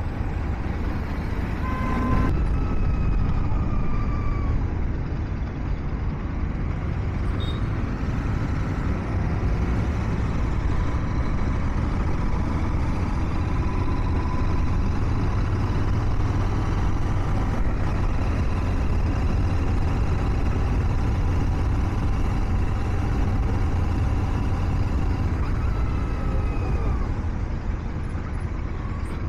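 Royal Enfield Continental GT 650's 648 cc parallel-twin engine running as the motorcycle is ridden through city traffic, a steady low rumble mixed with road and wind noise. Brief higher sliding tones from surrounding traffic come about two seconds in and again near the end.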